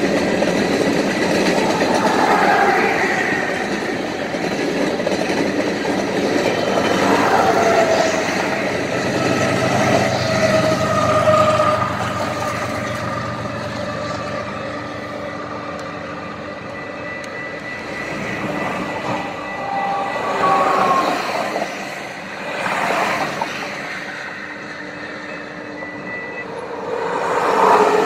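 BNSF freight train of covered hopper cars rolling past a grade crossing, with the engine of the locomotive on the rear end going by about ten seconds in and high tones gliding down in pitch as it passes. The train then fades, and road traffic goes by, with a truck passing close near the end.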